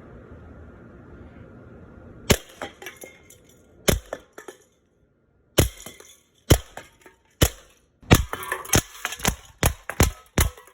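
EMG Salient Arms International airsoft gun firing single shots: about fifteen sharp cracks, the first about two seconds in, coming irregularly and faster toward the end.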